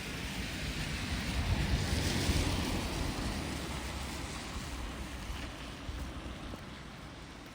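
A vehicle passing by on the road, its rushing tyre and engine noise swelling to a peak about two seconds in and then fading away.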